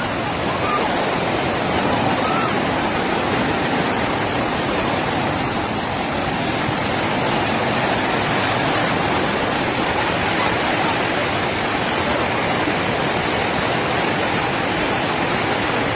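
Water rushing steadily: a dense, even hiss that does not change.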